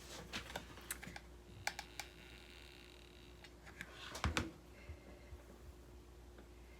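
Handling sounds of rope being hot-glued around a form: scattered light clicks and taps, with a louder cluster of knocks about four seconds in.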